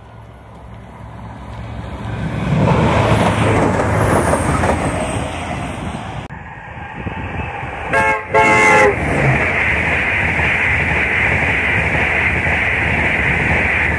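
Rumble of an approaching express train building up, then two short blasts of a train horn about eight seconds in. The steady rushing noise of a Virgin Trains East Coast intercity train passing at speed follows.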